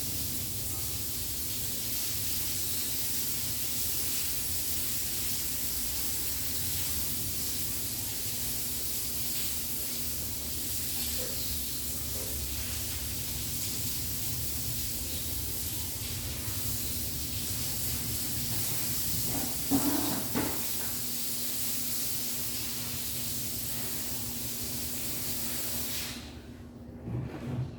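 A steady hissing rush of noise over a faint low hum, with a couple of knocks about two-thirds of the way through; it cuts off abruptly near the end and a few thuds follow.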